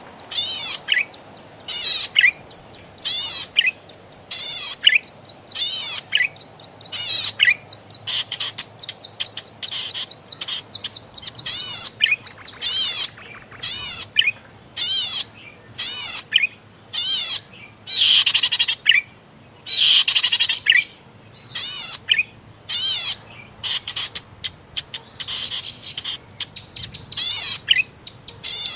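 Zitting cisticola (cici padi) singing: short bursts of high, rapid trilled notes repeated about once a second, many ending in a brief downward slur.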